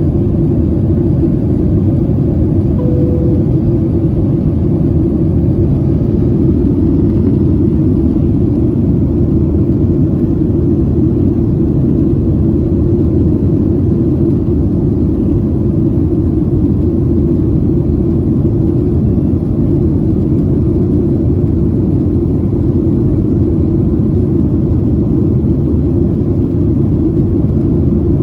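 Boeing 737 cabin noise: a steady, loud, low rumble of engines and airflow.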